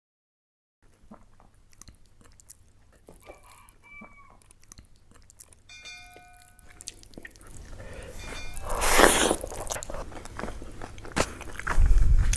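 Close-up eating sounds: biting, crunching and chewing, faint at first and louder in the second half. A rooster crows faintly in the background about six seconds in.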